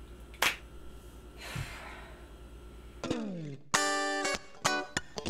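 A sharp click, then a long breathy sigh. About three seconds in, electric guitar music starts with a downward slide and then short, punchy chords.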